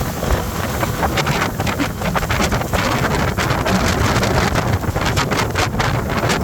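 Speedboat running at speed across the water, with heavy wind buffeting the microphone and frequent short crackles.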